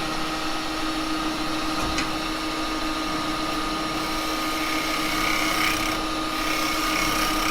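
Axminster 1628 wood lathe running steadily with its motor hum while a turning tool cuts the spinning wet cherry blank, truing a piece that is slightly out of round, with a few faint clicks.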